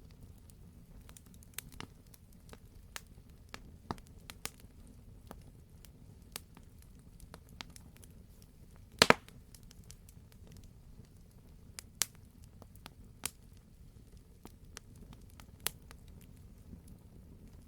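Wood fire burning in a fireplace: scattered light crackles over a low steady rumble, with a sharp double pop about halfway through.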